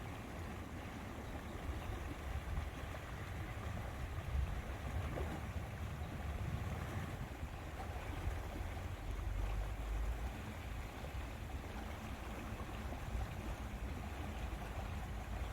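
Lakeside ambience of wind and water, with a fluctuating low rumble of wind on the microphone throughout.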